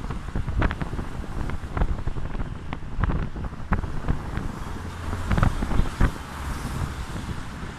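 Strong wind buffeting the microphone during a rainstorm: a steady low rumble broken by many irregular sharp crackles and thumps.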